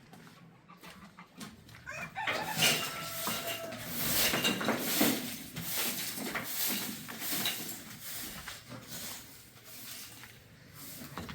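Chickens clucking and squawking, starting about two seconds in, with much rustling and scuffling among them.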